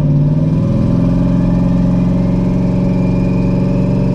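Twin-turbo Camaro engine running steadily while driving, a loud even drone with a faint higher whine that climbs slightly in pitch partway through.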